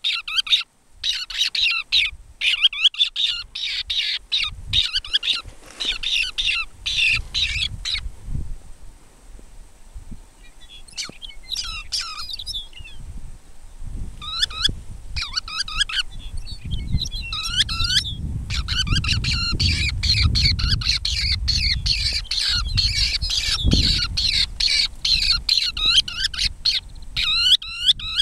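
A flock of seabirds calling, with rapid harsh squawking and chattering calls that come in dense bursts, thin out for a few seconds near the middle, and pick up again. A low rumble, such as wind on the microphone, runs under the second half.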